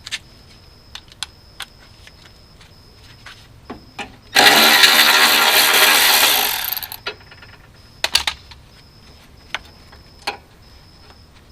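A handheld power tool runs for about two and a half seconds, backing out a bolt, and winds down near the end. Scattered light metallic clicks of hand tools and parts come before and after it.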